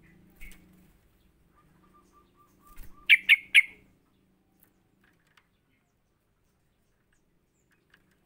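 Yellow-vented bulbul calling: a quick run of soft, low notes, then three loud, bubbly notes in fast succession a little after three seconds in.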